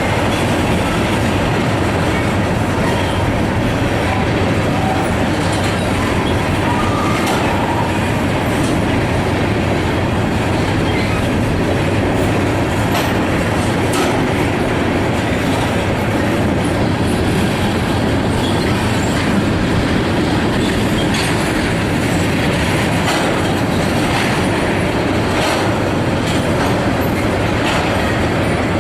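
Freight train cars rolling past close by, wheels clacking steadily over the rail joints, with occasional faint wheel squeal.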